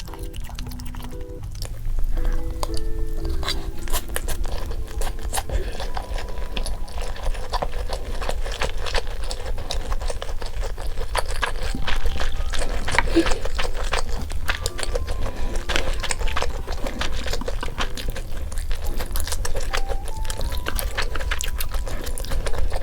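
Light background music with a simple stepped melody, over many sharp clicks and crackles throughout.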